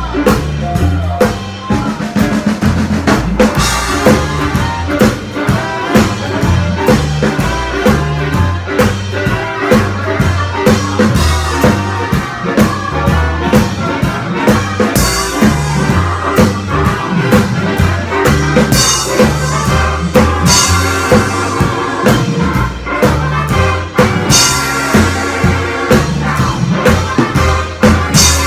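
Live swing band playing an up-tempo instrumental with brass horns (trumpet and trombone), drum kit, bass and guitar, the bass walking under regular drum hits.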